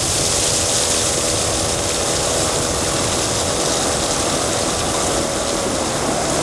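Motorboat engine running steadily, under a wide, even hiss.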